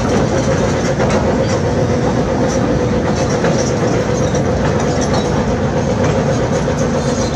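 Heavy construction machinery running: a steady diesel drone with a held whine and scattered light metallic clicks.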